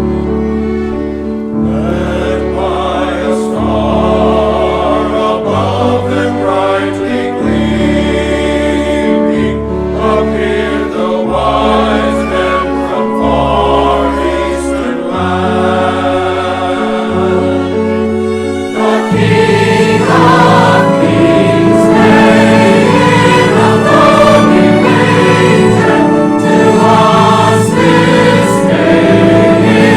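Church choir singing a Christmas anthem with orchestra accompanying, sustained bass notes moving beneath the voices. About two-thirds of the way in the music swells into a fuller, louder passage.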